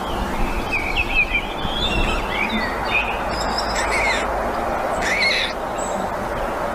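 Birds chirping: a run of short chirps and sliding notes, then two louder calls about four and five seconds in, over a steady background hiss.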